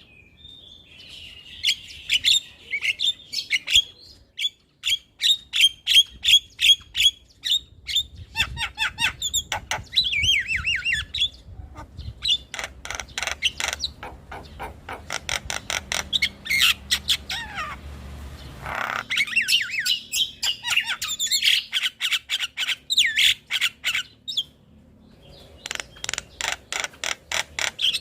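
Javan myna (jalak kebo) song: fast runs of sharp, clicking notes mixed with whistled chatter and a brief harsh rasping call about two-thirds of the way through.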